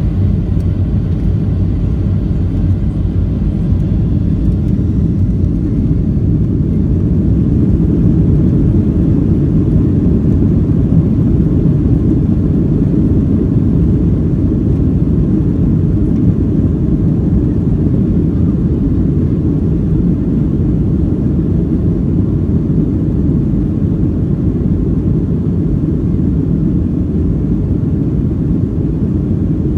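Airliner's jet engines at takeoff power, a loud steady low rumble that swells slightly about ten seconds in.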